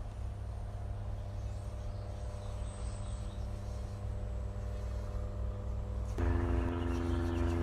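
Motor vehicle engine hum with a low rumble and a steady pitch. About six seconds in it gets louder and a stronger engine tone comes in, as a vehicle draws nearer.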